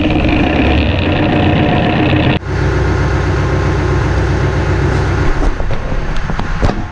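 Massey Ferguson 5400-series tractor's diesel engine running steadily, with an abrupt break about two and a half seconds in, after which it runs on with a deeper tone.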